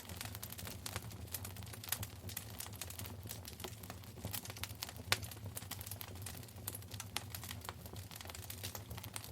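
Wood fire burning in a fireplace, crackling with quick irregular pops and snaps, one louder pop about five seconds in, over a low steady rumble.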